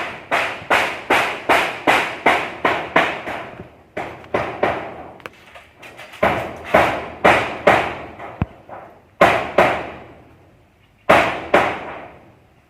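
Hammer blows struck in quick runs of about three a second, with short pauses between runs: carpentry or roofing work.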